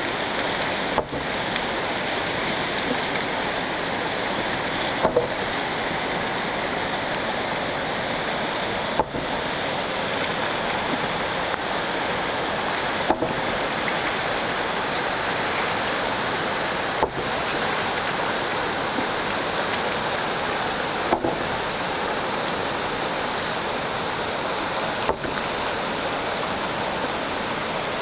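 Steady rush of flowing stream water, an even hiss with no pitch, broken by a brief dropout about every four seconds.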